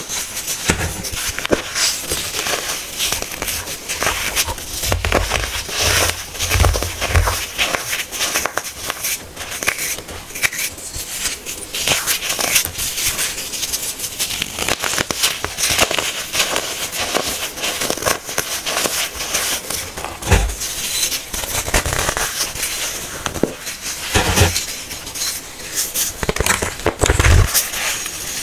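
Hardened baking soda being crushed, a dense, continuous crunching and crackling with a few low thuds mixed in.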